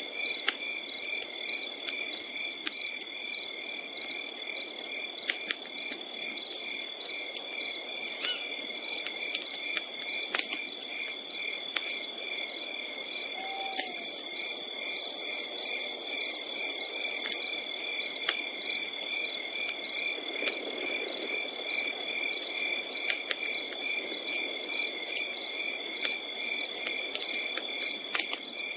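Crickets chirping in a steady, even rhythm with a continuous high trill behind them, over a campfire crackling with scattered sharp pops and a soft rush of flame.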